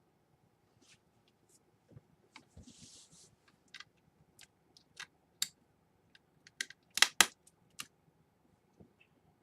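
Scattered clicks and taps of small laptop parts being handled during disassembly, with a brief scraping hiss about three seconds in and two sharp clicks in quick succession about seven seconds in.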